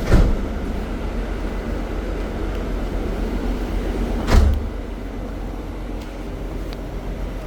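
Steady rumble of a coach bus heard from inside the cabin, with two sharp thumps, one at the very start and another about four seconds in.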